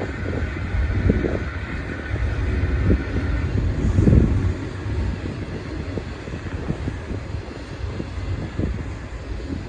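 Intermodal freight train rolling past: a steady low rumble with irregular thumps, with wind buffeting the microphone.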